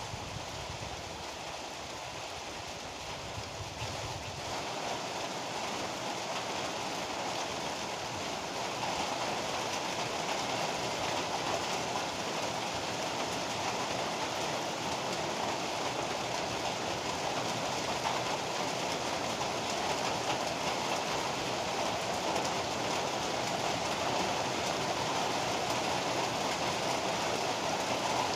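Heavy rain pouring steadily, growing a little louder about a third of the way in. A low rumble underneath dies away in the first few seconds.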